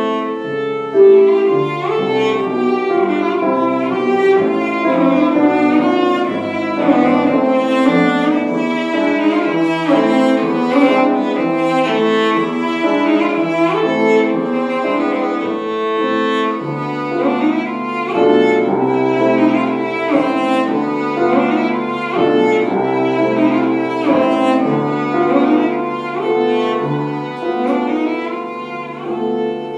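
Bowed string instruments, cello and violin, playing classical music live, with many quick-changing notes throughout.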